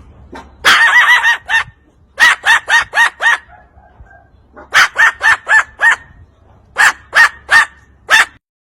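Parrot calling loudly in four bursts of short, harsh squawks, three to five calls in each burst.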